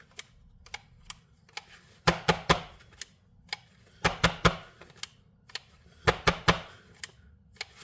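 Sharp clicks and knocks in small irregular clusters, with no motor running: a battery being handled and fitted into a battery-powered grinder.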